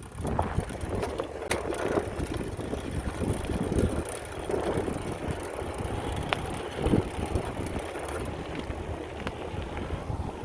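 Bicycle ridden over an off-road dirt trail: a continuous rumble of tyres on rough ground, with scattered knocks and a few sharp clicks from the bike rattling over bumps.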